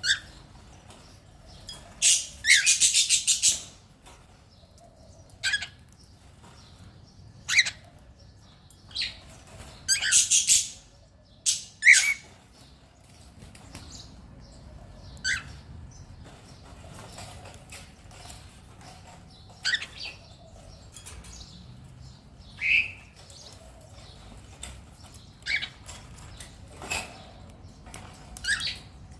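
A cockatiel giving short, sharp chirps every few seconds, with two longer, loud, rapidly pulsing harsh bursts about two seconds in and about ten seconds in.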